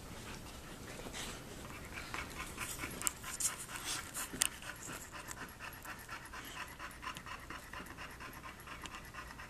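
A dog panting fast and evenly after hard play, with a few short clicks or scuffles partway through.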